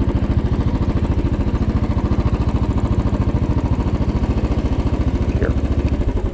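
2010 Royal Enfield Bullet 500's single-cylinder engine running at low revs, a steady run of fast, even pulses that drops away right at the end.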